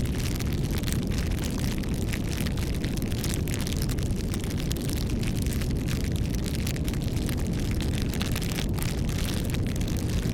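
Campfire burning: wood crackling and popping in quick irregular clicks over a steady low rumble.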